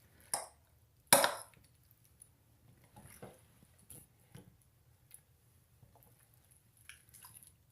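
Boiled chicken being skinned and pulled apart by hand in a bowl: a sharp knock about a second in, then scattered faint soft clicks and squishy handling sounds.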